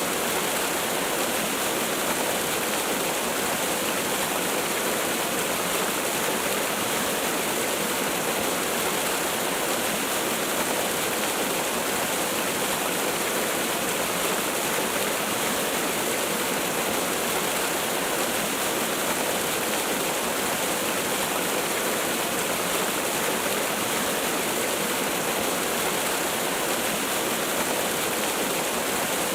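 Waterfall: a steady, unbroken rush of falling water, full across the range with no separate splashes.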